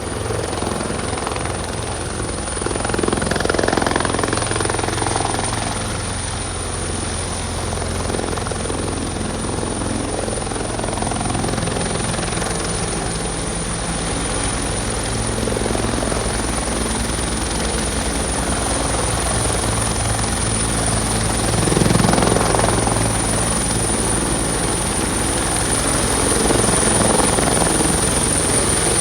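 Fire department helicopter running steadily, its rotor beat carrying a thin, steady high whine, with two brief swells in loudness, a few seconds in and again about two-thirds of the way through.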